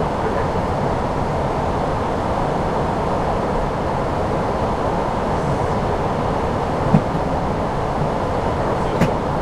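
Steady rushing airflow and engine noise on the flight deck of an Airbus A340-600 in flight on approach, with two brief clicks about seven and nine seconds in.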